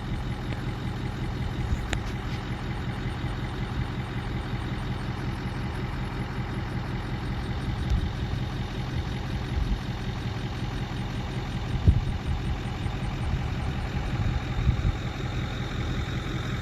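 Vehicle engine running steadily at a low idle-like hum, with a few faint knocks.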